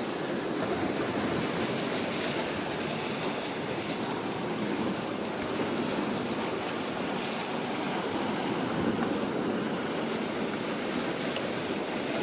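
Sea surf washing on the shore as a steady rush of noise, with wind on the microphone.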